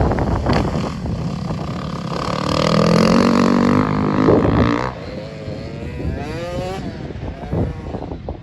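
Dirt bike engine revving: the revs climb for a couple of seconds and cut off sharply about five seconds in, then a shorter, wavering burst of revs follows, over a rough rumbling noise throughout.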